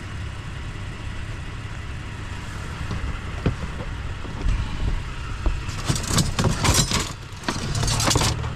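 Vehicle engine idling with a steady low hum, and from about six seconds in a quick run of metallic clattering and rattling as pieces of scrap, including aluminum, are picked through and moved.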